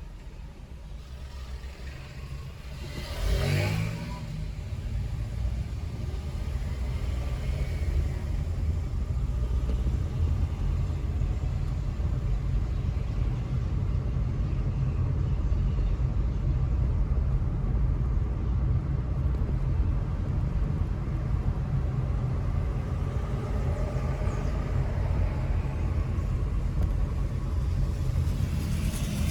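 A car driving through town: a steady low rumble of engine and tyres that builds up a few seconds in. About three seconds in comes a brief loud whoosh, like a vehicle passing close by.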